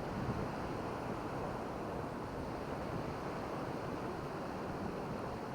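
Steady rush of surf on a beach, with wind buffeting the microphone.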